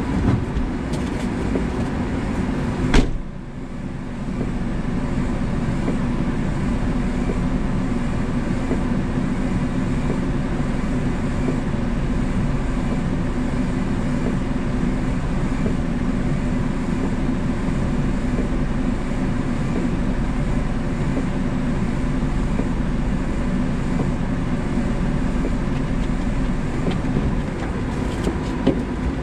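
1994 Daihatsu Hi-Jet mini truck's small three-cylinder engine running steadily, heard from the dash. A single sharp bang about three seconds in, the truck door shutting.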